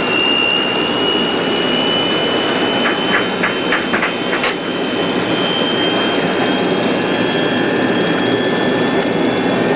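Cockpit noise of a Boeing 737-200's Pratt & Whitney JT8D turbofans as takeoff thrust comes up: a steady roar with a high whine that rises slowly in pitch. A quick run of about five clicks sounds between three and four and a half seconds in.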